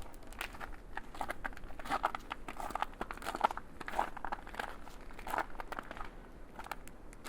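Footsteps crunching through fresh, cold snow at a steady walking pace, about two steps a second.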